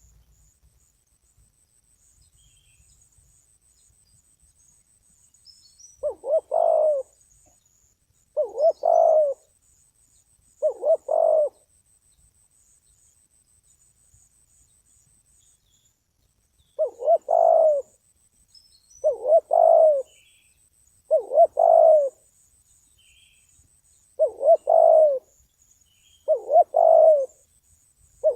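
Spotted dove (terkukur) cooing: about nine low, throaty coo phrases of roughly a second each. The calls start about six seconds in, come three in a row, pause, then come six more at a steady pace.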